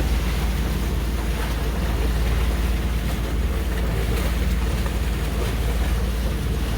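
A boat's engine running steadily while under way, with wind noise on the microphone.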